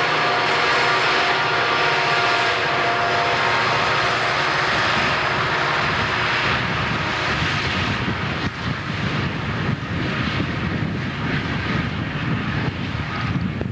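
EMD SD40 diesel locomotives, 16-cylinder two-stroke engines, working hard as they pass on a coal train. About eight seconds in, the steady engine drone gives way to a choppier rumble and clatter of the train rolling by.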